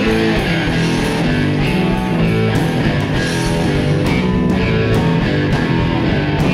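Live rock band playing an instrumental stretch between sung lines: electric guitar over bass and drums, with no singing.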